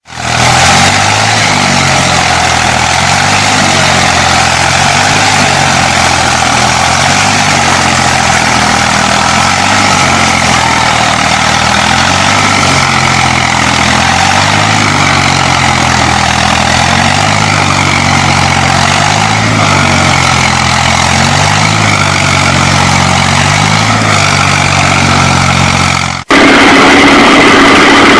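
Tractor engine running steadily under load, its pitch rising and falling slightly. About 26 seconds in it cuts off abruptly and a louder engine sound with a higher whine takes over.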